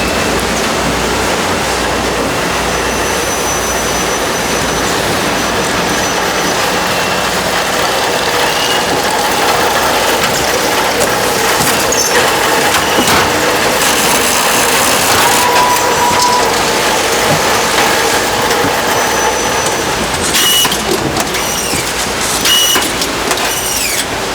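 Snack-factory production machinery running with a steady mechanical noise, and a few sharp clicks and clinks near the end.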